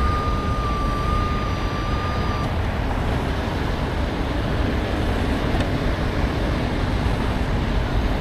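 Heavy tow truck running, a steady low engine and road rumble. A steady high electronic tone sounds over it for about the first two and a half seconds, then stops.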